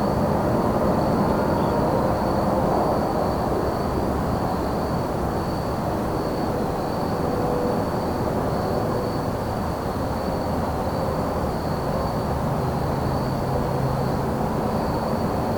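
Crickets trilling steadily at one high pitch over a louder, steady low rumble of distant engine noise.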